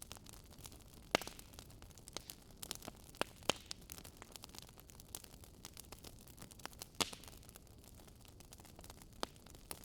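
Burning firewood crackling: irregular sharp pops and snaps over a soft steady hiss, the loudest pops about a second in, halfway through and near the end.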